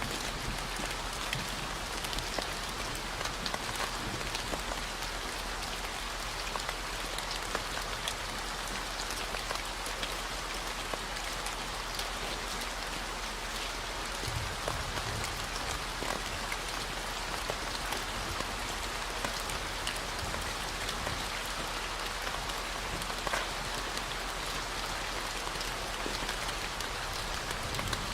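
Steady rain with many individual drops pattering on a surface, over a constant low 40 Hz gamma-wave tone.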